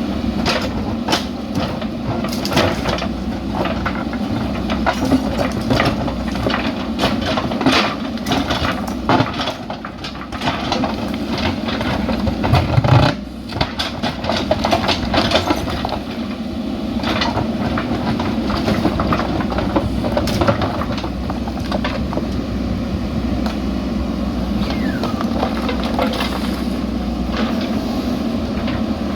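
Backhoe loader's diesel engine running steadily under load, with repeated metallic clanks and knocks from the bucket and arm at work, and one heavy thump about halfway through.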